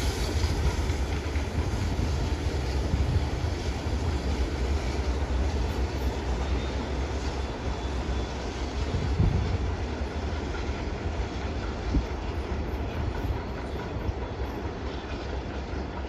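Train running away on the rails, a steady low rumble of wheels on track that fades slowly over the second half.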